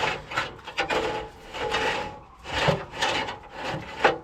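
Old trailer wiring being pulled out of a truck's frame, dragging and scraping against it in a series of irregular rubs.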